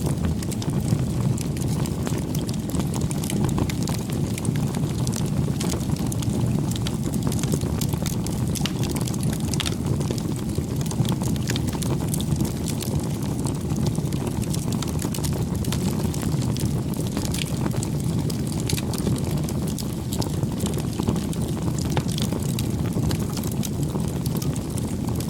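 Wood fire burning: a steady low rumble of flames with many small, sharp crackles and pops scattered throughout.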